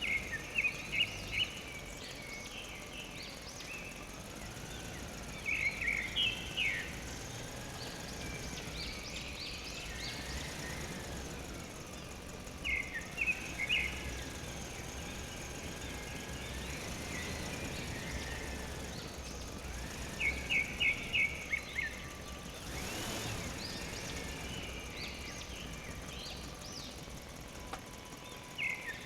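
A bird calling outdoors: quick bursts of three to six short high chirps, repeated about every seven seconds over steady outdoor background noise.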